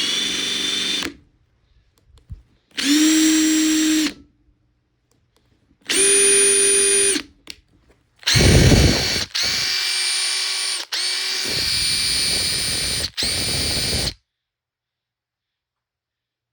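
Makita TP141D 18V cordless 4-mode impact driver run free with no load. Its motor whines in three short trigger pulls of about a second each. Then comes a longer run of about six seconds with three brief breaks, which stops about 14 seconds in.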